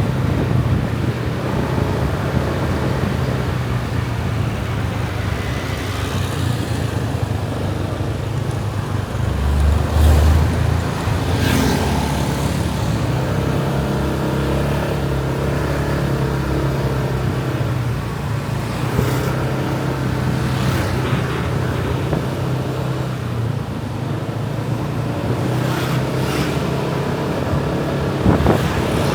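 Motorbike engine running steadily on the road, with wind on the microphone and passing traffic, and a louder low rumble about a third of the way through.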